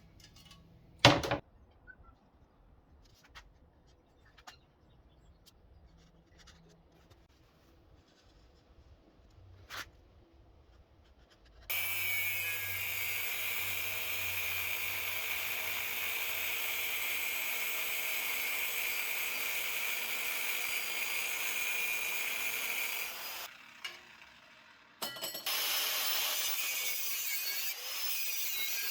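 A sharp knock about a second in, then a power tool runs steadily on the steel minibike frame for about twelve seconds, cutting or grinding with a high whine. It stops, and starts again about a second and a half later.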